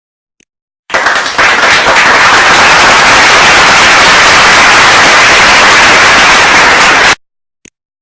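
Loud, dense crackling noise played as an editing sound effect. It starts abruptly about a second in and cuts off suddenly about six seconds later.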